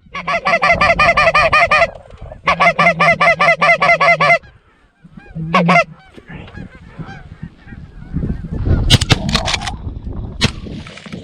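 Canada goose honks and clucks in two fast runs of about two seconds each, then a single short call near the middle. In the second half come wind noise and a few sharp cracks, the loudest of them about nine seconds in.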